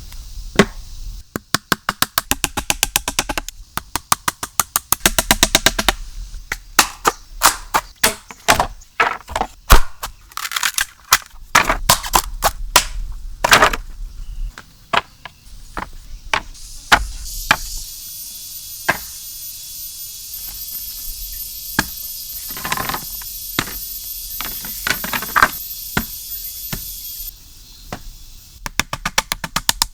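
Repeated knocking and chopping blows, some in quick runs and some single, from hand work on wood while a shelter is being built. A steady high hiss runs through the middle of the stretch, with fewer blows over it.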